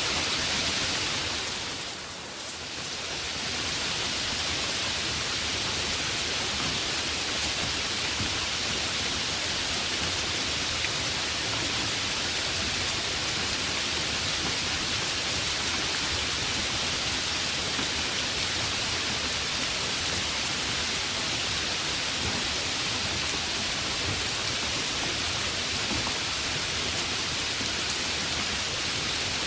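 Heavy rain falling steadily as a dense hiss, briefly dipping and swelling back about two seconds in.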